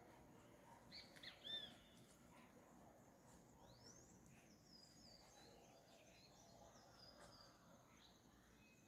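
Faint dawn birdsong from several birds over a steady background hiss. The loudest part is a cluster of arched chirps about a second and a half in, followed by a rising whistle and a run of high, falling notes.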